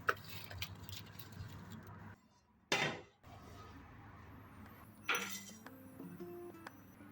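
Kitchenware being handled, clinking and clattering, with a sharp knock a little under three seconds in. Soft instrumental music with plucked-sounding notes comes in about five seconds in.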